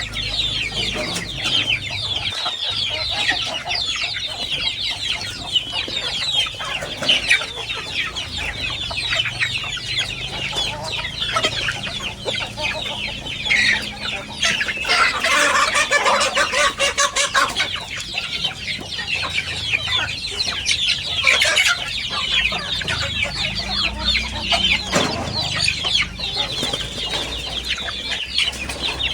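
A flock of kampung chickens clucking and cheeping continuously in many overlapping calls, with a louder stretch of squawking about halfway through.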